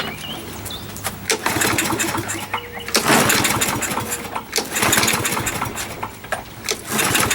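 Briggs & Stratton 6.25 EX engine on a push lawnmower, pull-started on the recoil cord, catching about a second in and running with uneven, rising and falling loudness; the owner suspects a dirty carburetor.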